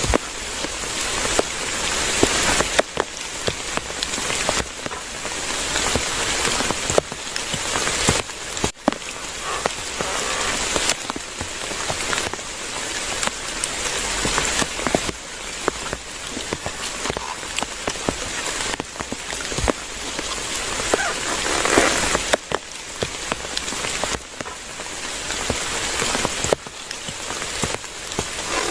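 Heavy rain falling steadily, with many separate drops pattering on nearby surfaces; the downpour swells and eases every few seconds.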